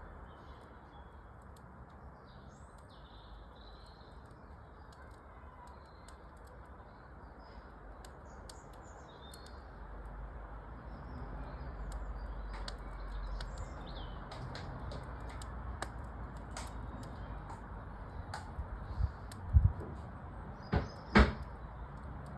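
Birds chirping over the crackle and pops of a wood fire in a fireplace. A few loud knocks near the end.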